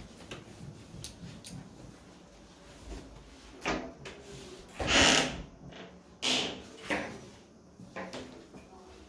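A door being opened and handled: a couple of faint clicks, then several short sliding scrapes, the loudest about five seconds in.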